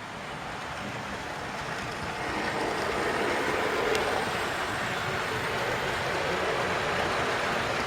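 00 gauge model train running along the layout's track, a steady rushing rumble of motor and wheels that grows louder over the first few seconds, then holds.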